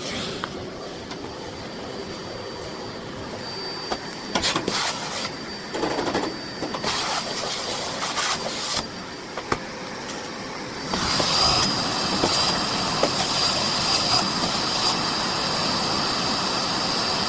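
Miele Blizzard CX1 bagless vacuum cleaner running with a steady high whine, its floor head knocking and bumping against furniture a few times in the middle, then growing louder about eleven seconds in.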